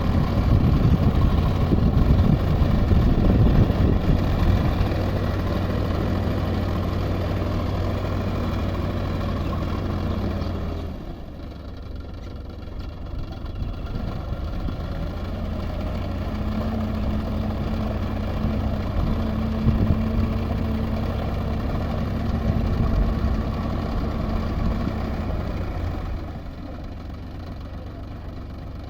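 Tractor engine running steadily at idle-to-moderate speed, loudest at first and dropping noticeably about a third of the way in and again near the end.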